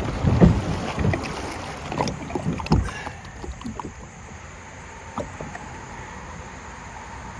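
Kayak and paddle knocking against rocks in a shallow, rocky creek: a quick string of thumps over the first three seconds, then the steady rush of the creek.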